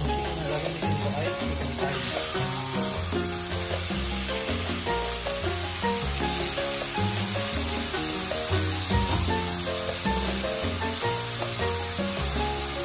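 Chicken pieces sizzling in oil in a wok, a steady frying hiss, with background music playing over it.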